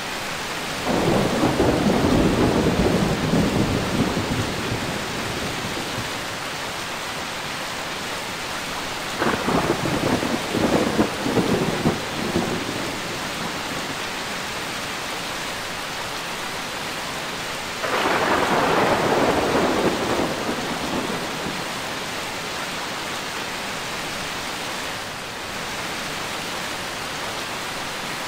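Steady heavy rain with thunder rolling three times: a long rumble about a second in, a crackling peal with several sharp peaks near the middle, and another rumble around two-thirds of the way through.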